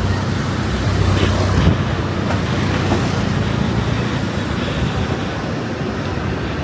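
Strong wind rushing over the microphone, with the low hum of a passing motor vehicle's engine that fades out about halfway through.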